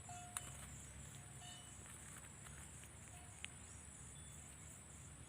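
Faint steady high-pitched chirring of insects such as crickets, with two sharp clicks, one near the start and one a little past halfway, and a few faint short chirps.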